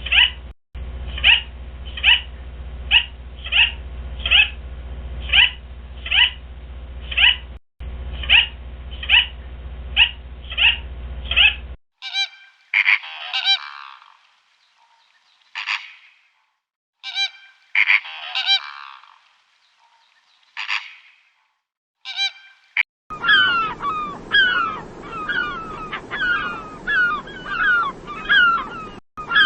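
A run of three different animal-call recordings. First, a call repeats about twice a second for twelve seconds over a low hum. Then come scattered single calls with silences between them. From about two-thirds of the way through, a fast series of short rising calls begins.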